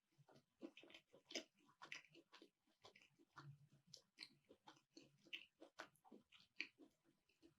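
A person chewing a baked keto piroshok (Russian dumpling with mince and onion) with the mouth close to the microphone: faint, irregular chewing clicks at about two to three a second.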